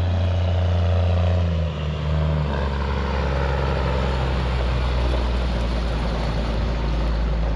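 GMC C8500 tandem dump truck's diesel engine running steadily, its pitch dropping to a lower steady note about two and a half seconds in.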